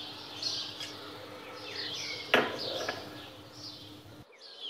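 Small birds chirping again and again in the background, short falling calls, over a steady low hum. A single sharp click sounds about two and a half seconds in, and the sound drops out briefly near the end.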